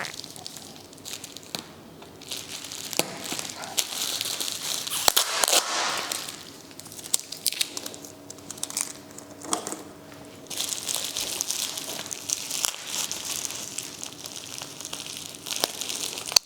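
Packaging crinkling and rustling as it is pulled open and unwrapped by hand, in irregular spells with louder stretches.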